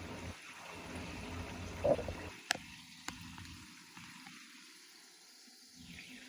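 French fries frying in hot oil, a steady sizzle, with two sharp clicks about halfway through.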